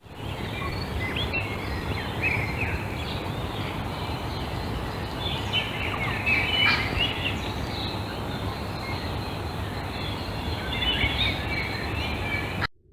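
Several birds chirping and trilling over a steady rushing background noise; the sound cuts off suddenly near the end.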